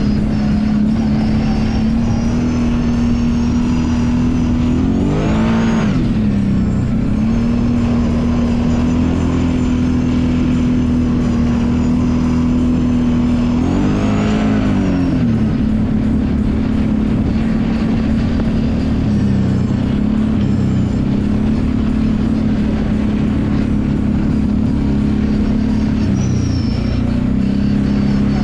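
Kawasaki Brute Force 750 ATV's V-twin engine running at a steady speed, revving up and falling back twice, about five seconds in and again about fourteen seconds in.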